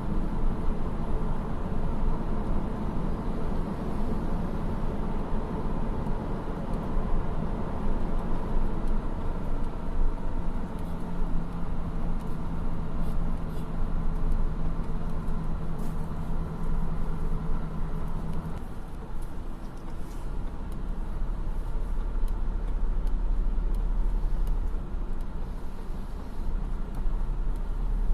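Diesel engines of heavy earthmoving machinery running steadily with a deep drone. A held hum in the engine sound stops about two-thirds of the way through, and the low rumble grows stronger near the end.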